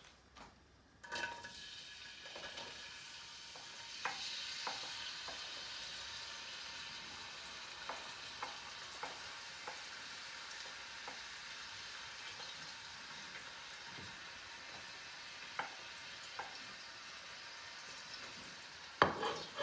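Diced onion and chopped garlic sizzling in hot olive oil in a metal wok, starting about a second in, with a wooden spoon stirring and clicking against the wok now and then. A louder knock comes near the end.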